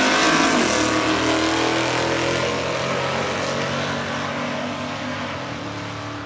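Race car engine at full throttle on a drag strip, pitch climbing and then dropping sharply under a second in as it shifts gear. It then fades steadily as the car pulls away down the track.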